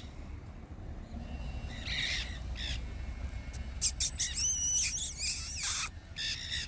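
Monk parakeets (Quaker parrots) squawking: scattered harsh calls, with a loud burst of screeching, wavering calls from about four to six seconds in.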